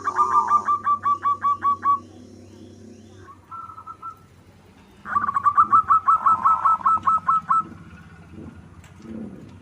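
A zebra dove (perkutut) singing: two bouts of quick, evenly repeated cooing notes, about five or six a second, with a pause of about three seconds between them.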